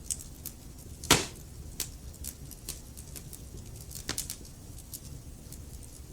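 Wood fire crackling in a fireplace: irregular small snaps over a low, steady rumble of the flames, with one loud pop about a second in and another sharp snap about four seconds in.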